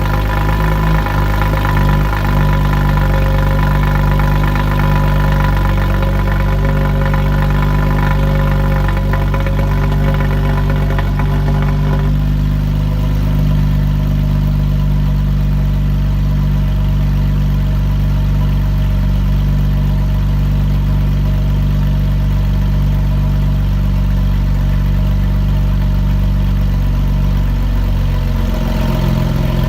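Porsche 996 Turbo's twin-turbo flat-six idling through an X-pipe exhaust after a cold start, with a steady exhaust note. About twelve seconds in, the upper part of the tone drops and thins, and the low note shifts again near the end.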